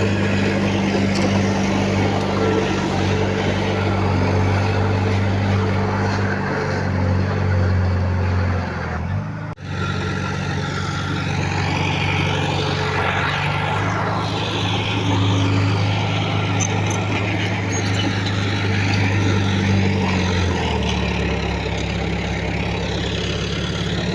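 Heavy diesel engine of earthmoving machinery running steadily, with a deep, even engine note. It breaks off for an instant about nine and a half seconds in, and the engine note shifts lower about twenty seconds in.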